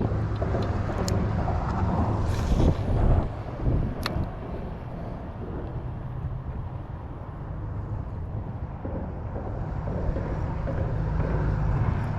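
Steady low rumble of road traffic crossing the causeway bridge, heard from underneath it, with a couple of faint sharp clicks.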